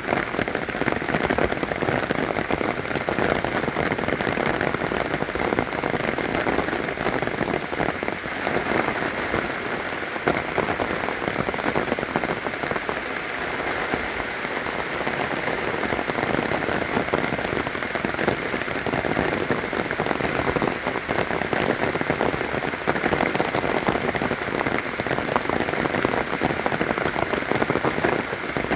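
Steady rain falling, a dense, even hiss of many small drop impacts that holds at one level throughout.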